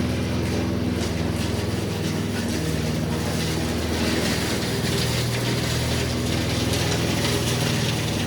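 Honda walk-behind lawn mower's single-cylinder four-stroke engine running steadily, its pitch shifting slightly a few times, with a mechanical clatter over it.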